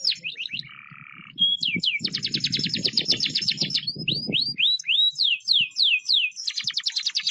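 Budgerigars chirping: a stream of quick downward-sweeping chirps, thickening into a fast chattering run about two seconds in.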